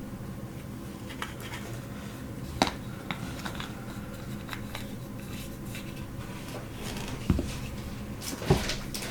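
Small plastic nail gel containers being handled and set down on a tabletop: scattered light clicks and knocks, the sharpest about two and a half seconds in and twice near the end, over a steady low room hum.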